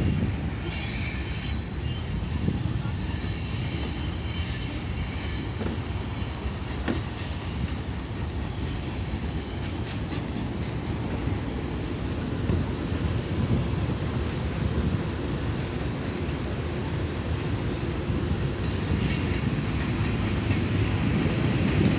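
Freight train's cars rolling steadily past, a continuous low rumble of wheels on rail, with thin high wheel squeal in the first few seconds and again near the end.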